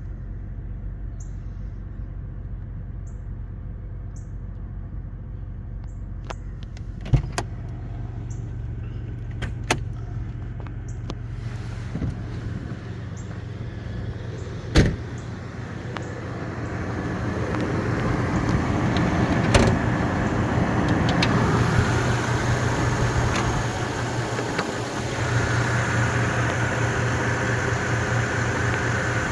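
2001 Toyota 4Runner's 3.4-litre DOHC V6 running, a steady low hum with a few sharp clicks and knocks. A louder rushing noise builds from about halfway, dips briefly, then holds steady near the end.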